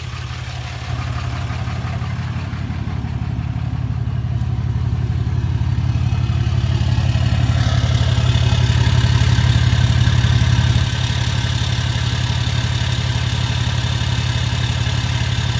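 2018 Ram 2500's 6.7 Cummins inline-six turbodiesel running steadily through a 4-inch straight exhaust with a Flo Pro resonator and no DPF, a low, steady drone. It grows gradually louder, with more hiss on top, then drops back a little about eleven seconds in.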